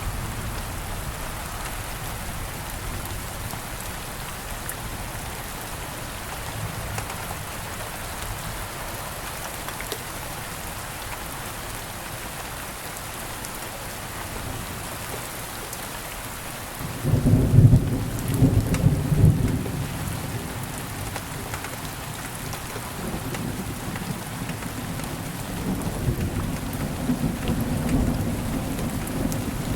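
Steady rain falling, with thunder breaking in a little past halfway as a loud low rumble for a few seconds, then rumbling on more quietly near the end.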